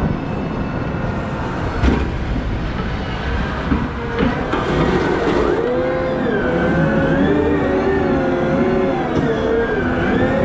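Cat 972M XE wheel loader working: a heavy diesel runs with a steady low rumble and two sharp knocks in the first half. From about halfway, a pitched whine sets in that keeps rising and falling.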